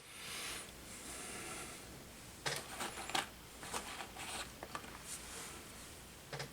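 Workbench handling sounds while repairing a drone frame: a rustling hiss over the first two seconds, then scattered light clicks and taps of small parts and tools.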